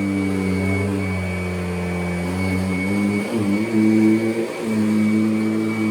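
Kirby Avalir upright vacuum cleaner running, a steady motor drone with a thin high whine over it. Its pitch dips and shifts briefly about three seconds in and again near four and a half seconds.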